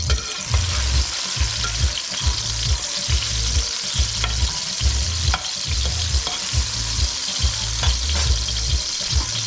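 Diced tomatoes sizzling in hot oil in a stainless-steel wok, stirred now and then with a slotted metal spoon that clicks against the pan. A low, steady beat pulses underneath about twice a second.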